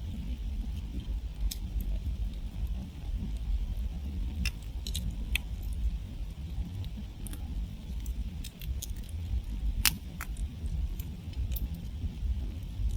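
Wood campfire burning: a steady low rumble of flames under scattered sharp crackles and pops from the burning wood, the loudest pop about ten seconds in.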